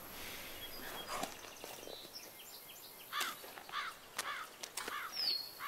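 Birds calling outdoors: faint chirps at first, then from about halfway a series of short rising-and-falling calls roughly twice a second, with one quick falling whistle near the end.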